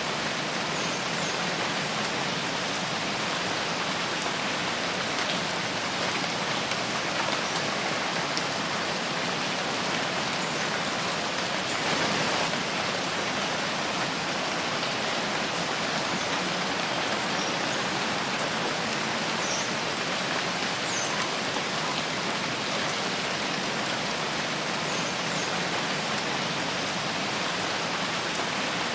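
Steady rain falling in a forest, a dense even hiss of drops with scattered individual drop ticks, briefly a little heavier about twelve seconds in.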